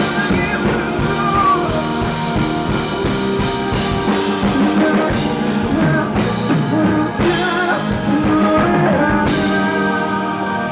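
Indie rock band playing live: electric guitar, bass and drum kit with dense drum hits over sustained chords, in the closing bars of the song.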